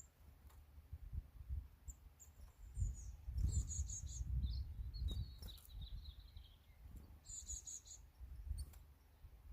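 Songbirds chirping in short high trills and chirp runs, most clearly in the middle and again near the end, over an uneven low rumble that is the loudest sound.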